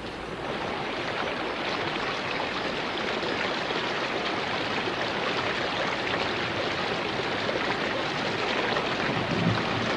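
Heavy rain falling steadily on rainforest foliage, a dense, even rush of drops that swells slightly about half a second in.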